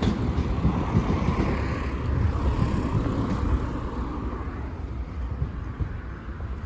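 Train running over the level crossing and moving away, its low rumble slowly fading, with wind noise on the microphone.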